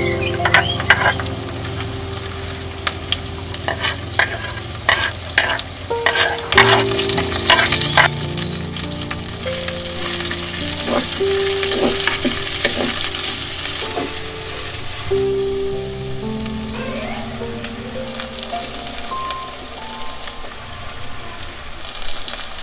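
Sliced green chillies, onions and pandan leaves sizzling as they fry in a clay pot, with a spoon clicking and scraping against the pot as they are tipped in and stirred; the clicks are thick in the first half, and the sizzle hiss is strongest in the middle. Soft sustained background music plays underneath.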